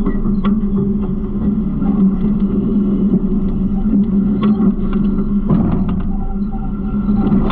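Garbage truck's diesel engine running with a steady low drone, with scattered light clicks and rattles over it.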